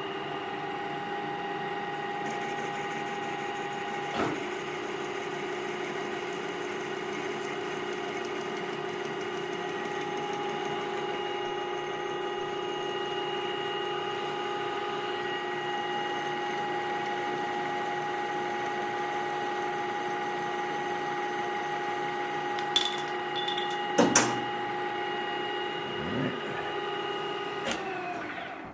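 Metal lathe running steadily at low speed while parting off a workpiece, its drive giving a steady whine. A few sharp clicks come about four seconds in and several more near the end. The lathe then shuts off and the whine dies away.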